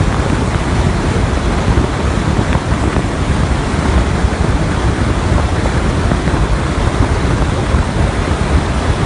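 Roaring wind rushing over a roof-mounted camera's microphone on a moving car, a loud, steady, deep rumble that buffets without let-up.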